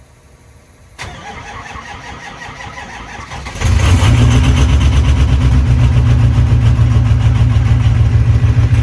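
Lifted pickup truck's engine cold-started after sitting all day in freezing cold. The starter cranks with a steady rhythmic churn for about two and a half seconds, then the engine catches and settles into a loud, steady idle.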